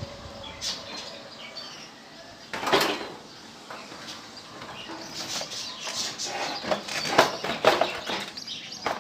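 Young budgerigars flapping their wings in a cage in short, irregular flurries, one strong flurry about three seconds in and more frequent ones in the second half.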